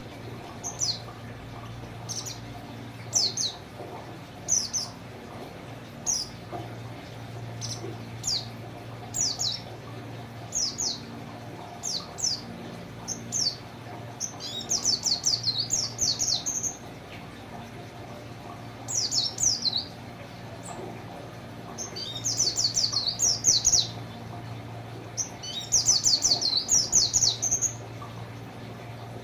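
A white-eye (pleci) singing. It gives single short, high, downward-sliding notes a second or two apart, broken three times by longer rapid trilled runs. These are the canary-style fill-in phrases the bird has been taught. A steady low hum runs underneath.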